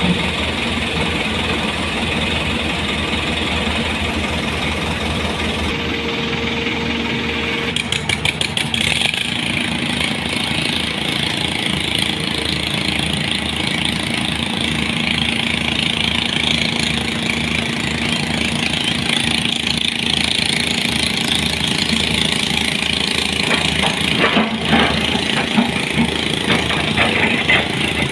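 A heavy vehicle's engine running steadily, with a quick run of knocks about eight seconds in and a few louder clatters near the end.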